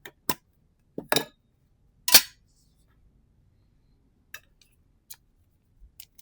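Plastic card sleeves being handled as cards are changed into smaller sleeves: a few short crinkly rustles and snaps, the loudest about two seconds in, then a few faint ticks.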